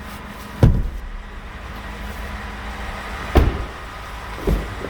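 Three short dull thumps over a steady low hum, the first two the loudest.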